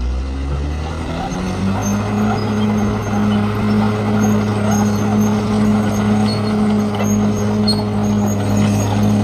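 Bulldozer's diesel engine revving up over the first second or so, then running steadily at the higher speed under working load.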